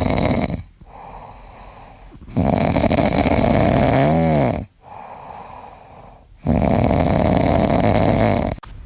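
Loud snoring: long snores of about two seconds each, roughly every four seconds, with quieter breaths between. One snore carries a whistle that rises and falls in pitch. The sound cuts off abruptly near the end.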